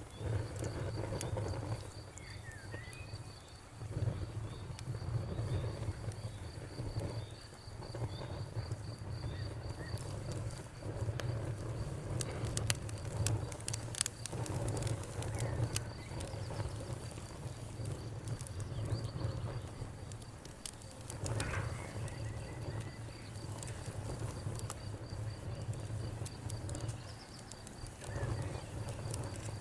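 Wood fire crackling, with scattered sharp pops over a low rumble that swells and fades, mixed with a cricket chirping steadily. A bird chirps briefly a couple of times.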